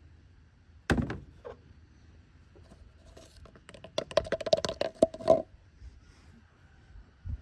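Tools and parts being handled during a car oil change: a single thunk about a second in, then a couple of seconds of quick clicking and rattling over a steady ringing tone.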